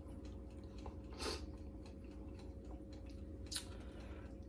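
Soft chewing of a mouthful of macaroni and cheese, with a few faint clicks.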